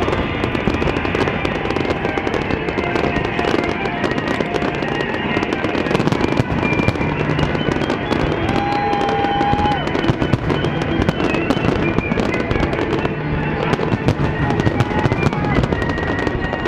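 Fireworks going off without pause: a dense, steady run of crackles and pops, with a short steady whistle about nine seconds in.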